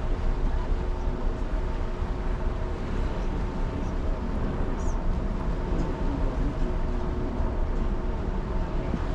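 Steady low rumble with a constant machinery hum from the cruise ship Norwegian Star under way, unchanging throughout.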